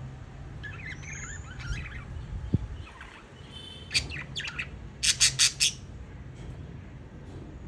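Budgerigar chirps: a few warbling calls about a second in, a sharp run of chirps near four seconds in, then four loud quick chirps in a row.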